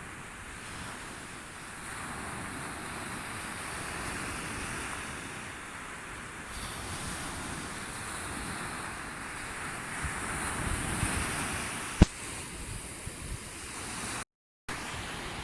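Sea waves washing onto the shore, a steady surf wash that swells about ten seconds in. A single sharp click, the loudest moment, about twelve seconds in, and a brief dropout to silence near the end.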